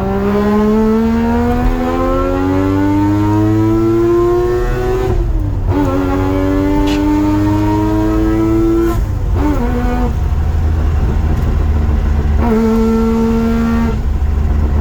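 Mazda RX-8's two-rotor Renesis rotary engine accelerating through the gears: the pitch climbs for about five seconds, drops sharply at a gear change, climbs again, drops at the next change, then holds steady, over a constant low road rumble.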